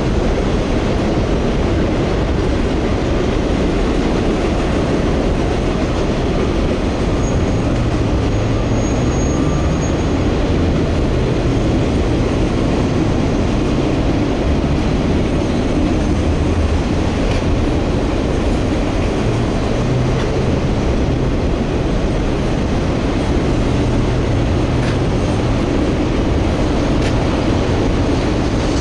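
A freight train rolling steadily past, its cars and wheels making a continuous noise on the rails, with a few light clicks in the second half.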